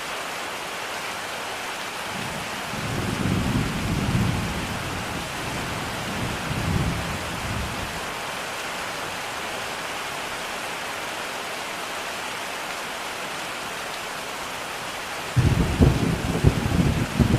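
Steady heavy rain with thunder rumbling low about three seconds in and again around seven seconds, then a louder, rougher thunder rumble near the end.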